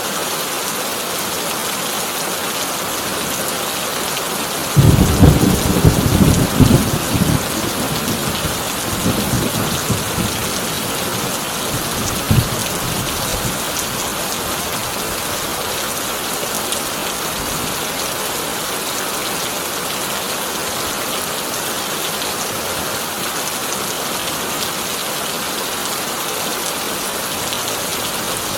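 Heavy rain falling steadily on a tin roof. About five seconds in, a loud thunderclap breaks out and rumbles for a few seconds, with weaker rumbles after it and one last short crack about twelve seconds in.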